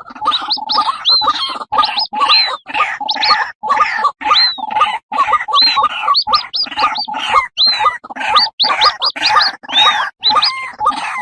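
White-breasted waterhen female and chicks calling together: a busy, unbroken stream of short rough croaking notes, several a second, mixed with high arched whistles that rise and fall.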